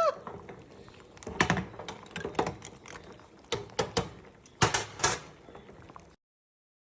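Small glass bottles and droppers clinking and clicking as they are handled, in irregular knocks, some with a short glassy ring. The sound stops abruptly near the end.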